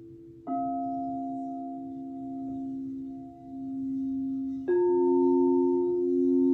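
Singing bowl struck twice, about four seconds apart, each strike ringing on in steady tones that waver slowly; the second strike is louder and adds higher tones.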